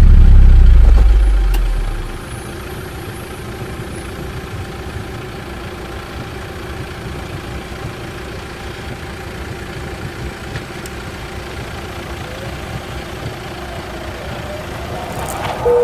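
A deep, loud rumble fades away over the first two seconds, leaving a stopped car's engine idling steadily. Near the end a faint rising tone comes in.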